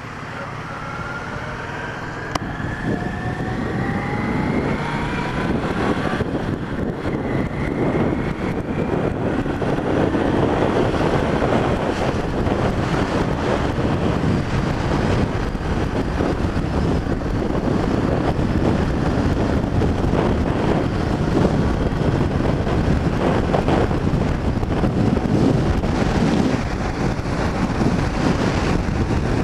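Motorcycle engine accelerating, its pitch climbing over the first few seconds, then wind buffeting the microphone as the bike rides on at speed.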